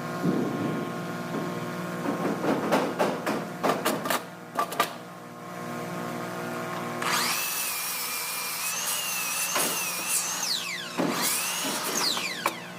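Handheld power drill running with a steady whine for about three seconds, then its pitch falling as the trigger is released, and a second short burst near the end. Before it there are several knocks and clatters of wood being handled.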